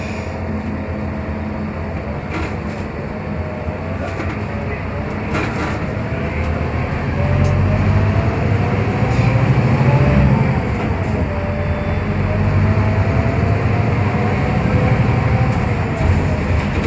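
Scania K320UB diesel-electric hybrid bus heard from inside the cabin while driving: a drivetrain whine rises and falls in pitch with road speed over a low engine rumble. The bus gets louder from about seven seconds in, peaking around ten seconds, then eases off slightly.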